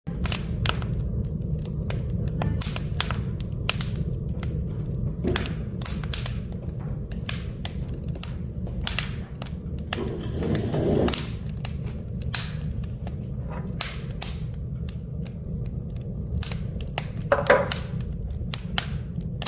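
Firewood burning in an open wood fire, crackling with many irregular sharp pops and snaps over a steady low rumble.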